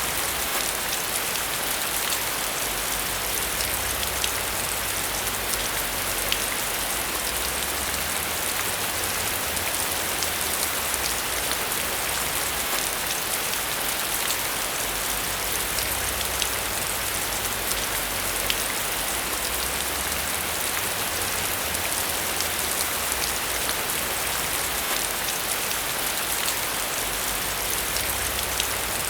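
Steady rain falling on a surface, an even hiss with the odd distinct drop ticking through it.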